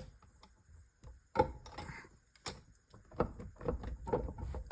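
Scattered clicks and knocks of metal transmission parts being handled and shifted during a teardown, with a sharper knock about a second and a half in and a quick run of clicks in the second half.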